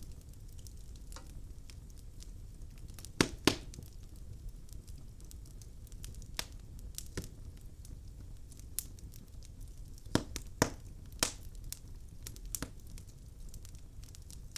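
Wood logs burning in a fireplace, crackling with scattered sharp pops over a low steady hiss. The loudest pops come as a pair about three seconds in and as three quick ones around ten to eleven seconds.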